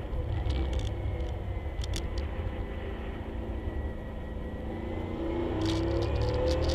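1967 Camaro race car's engine heard from inside the cabin at speed: the pitch falls slowly and the level dips as it eases off into a corner, then the pitch rises again as it accelerates near the end, over a steady low rumble. A few brief rattles cut through.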